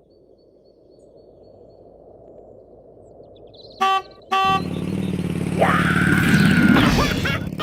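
A low rumble, then a horn honks twice in quick succession and a motorcycle engine starts running. Over the engine, a high tone rises, holds and drops away near the end.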